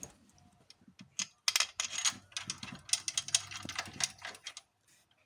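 Rapid, irregular metallic clicking and clattering of hand tools and bolts at a car's throttle body, from about a second in until near the end.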